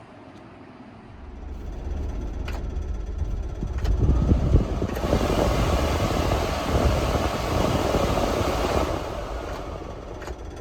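The three-cylinder engine of a 1994 Honda Acty kei truck running. It gets louder about a second in, is louder and noisier for a few seconds in the middle, then eases back toward the end.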